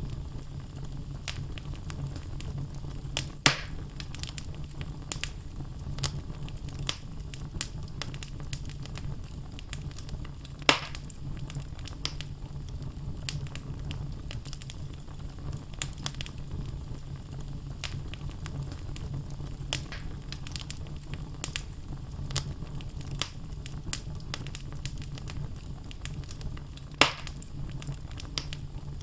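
Wood logs burning in a fireplace: many small crackles over a steady low rumble, with three louder sharp pops, about three seconds in, about eleven seconds in and near the end.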